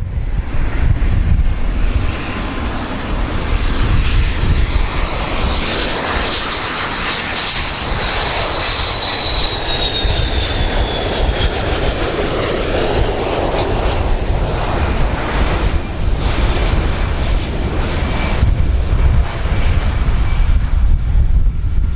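Airplane engines running loud and steady with a deep rumble, and a high whine that holds steady and then falls in pitch about ten seconds in.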